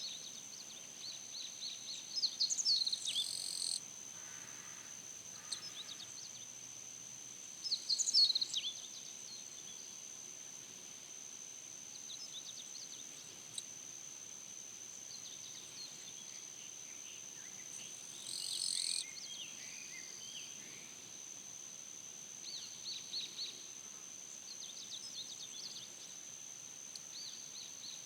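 An insect chorus makes one steady high-pitched drone throughout. Songbirds call and chirp over it at intervals, with louder bursts of song near the start, about eight seconds in and again around nineteen seconds, and short runs of quick chirps near the end.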